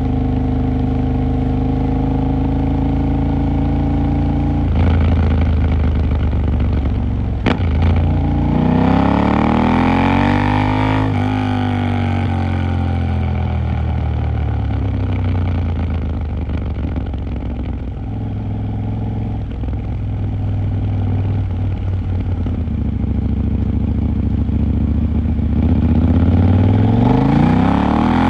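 KTM 890 Duke R's parallel-twin engine on the move: running steadily, then getting louder, revving up and falling back, holding steady, and revving up again near the end. A single sharp click comes about a quarter of the way through.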